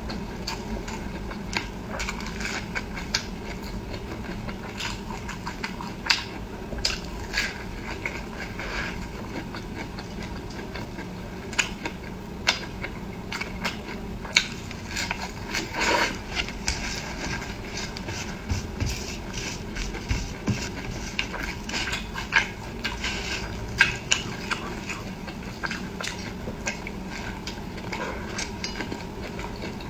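Close-miked eating sounds: wet chewing and mouth noises with many irregular sharp clicks and taps, over a steady low hum.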